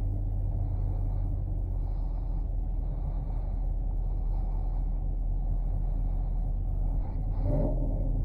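V8 engine of a 2021 Chevrolet Camaro LT1 running at a steady low idle, heard from inside the cabin as a deep steady rumble. About seven and a half seconds in there is a brief rise and fall in pitch.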